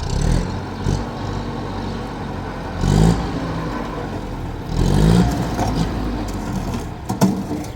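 Engine running steadily, revving up briefly three times, with a sharp knock near the end.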